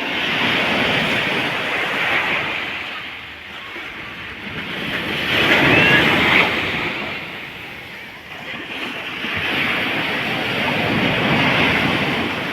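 Sea waves breaking and washing up the beach, in three surges a few seconds apart, the middle one loudest.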